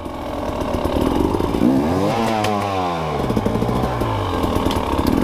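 Dirt bike engine running, revving up about two seconds in and falling back to a lower speed.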